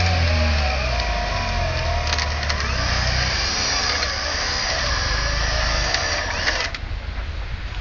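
Daihatsu Fourtrak 4x4 running, with a steady high whine over the engine and a wavering tone in the middle. Most of the sound cuts out abruptly near the end, leaving a quieter rumble.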